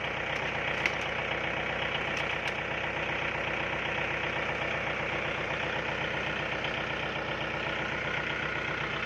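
Diesel farm tractor engine idling steadily, with a few light clicks in the first three seconds.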